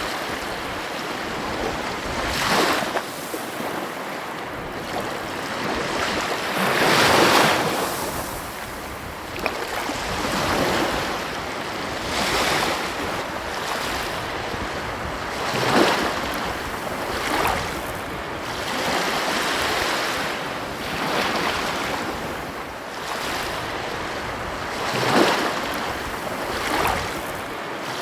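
Ocean waves breaking and washing on a beach, a steady surf hiss with a breaker surging up every few seconds, along with some wind.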